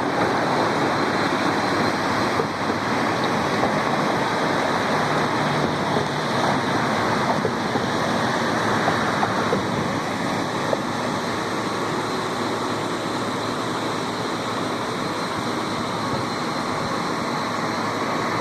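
Steady rush of water falling from a dam, an even roar with no breaks.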